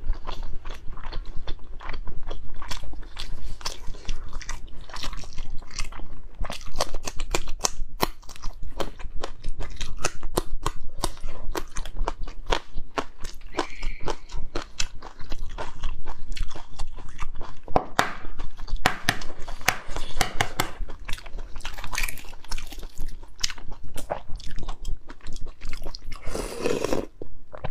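Close-miked chewing of whole braised eggs in chili oil, a dense run of small wet mouth clicks, with a louder bite near the end.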